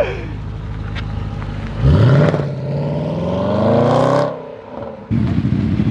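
A car engine accelerating hard, its pitch climbing steadily for about two and a half seconds before the throttle is lifted and it falls away, over a low engine rumble.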